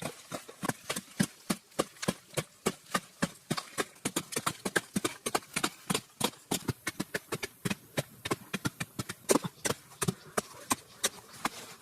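A rapid, irregular series of sharp knocks and taps, about four or five a second, with a few louder strikes near the end.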